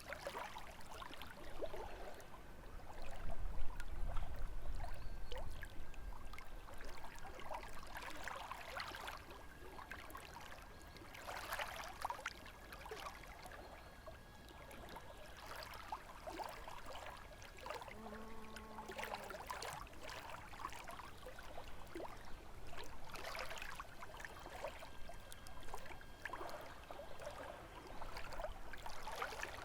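Small lake waves lapping and splashing against the shore in irregular surges, with a gust of wind rumbling from about three to six seconds in. A short low pitched sound comes just past the middle.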